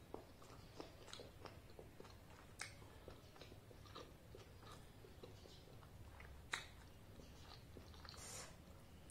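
Faint close-up mouth sounds of a person chewing a mouthful of soft deep-fried puri (luchi): scattered soft wet clicks and smacks, with one sharper click about six and a half seconds in and a short airy sound near the end.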